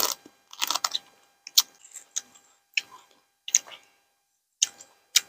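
Close-miked chewing of crunchy food: irregular wet crunches and mouth clicks, one every half second to second, with short pauses between.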